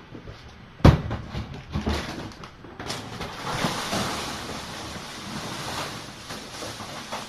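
Cleanup handling noises: a sharp knock about a second in, a few lighter thuds, then several seconds of rustling and scraping.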